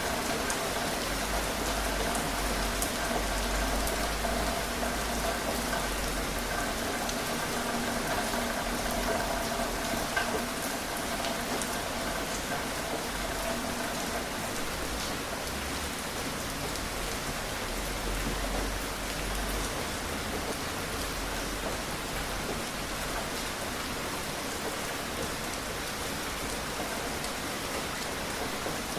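Steady rain falling, a continuous hiss with scattered sharp drops. A faint low hum sits beneath it for the first half.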